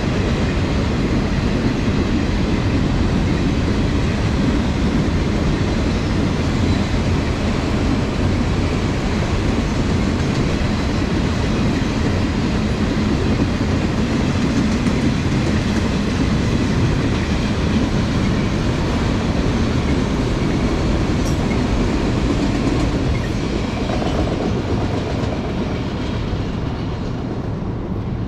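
Freight train's enclosed autorack cars rolling past: steady noise of steel wheels running on the rails, growing quieter near the end as the last cars pull away.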